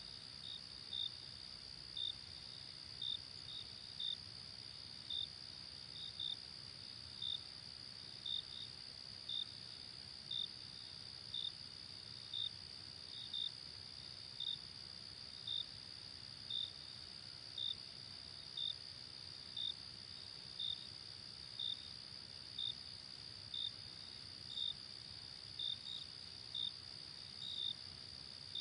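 Night crickets: short chirps about once a second, some in pairs, over a steady high trill of more insects.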